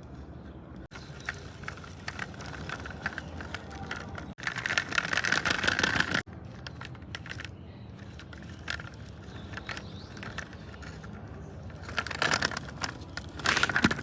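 Plastic toy vehicles rattling and scraping as they are pushed and played with, with two louder, rougher stretches of scraping: one from about four and a half to six seconds in, and one near the end.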